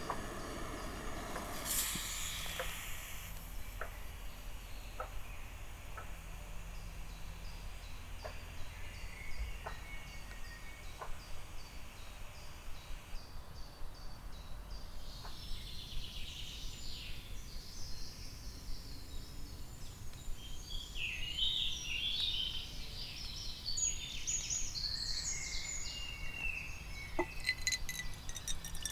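Forest ambience: small birds singing in quick runs of short chirping notes through the second half, over a low steady rumble and a few faint clicks.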